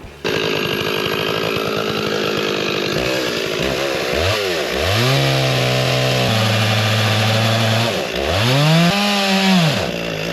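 Two-stroke chainsaw cutting firewood. The engine revs up to a steady high note and falls back twice.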